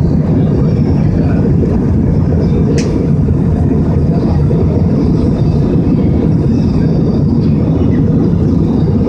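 Steady low roar of an airliner's engines and airflow heard inside the cabin, with one sharp click about three seconds in.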